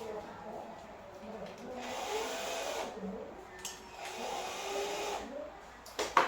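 Indistinct voices over a faint steady hiss, with two sharp knocks close together near the end.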